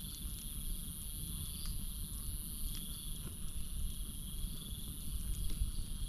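Campfire crackling, with sharp pops scattered through and a low rumble underneath. Over it, night insects keep up a steady high-pitched drone, and a trilling call repeats every second or two.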